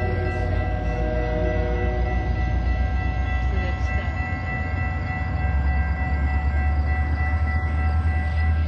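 A train running close by: a deep, steady low rumble with several steady tones above it, the lower of which fade out a couple of seconds in.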